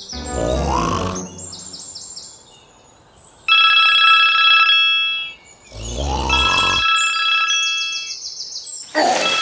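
A rapidly pulsing electronic ringing tone, like a telephone bell, in two bursts of about a second and a half each, with a third starting near the end. Short rising sweep sounds come before the first two bursts.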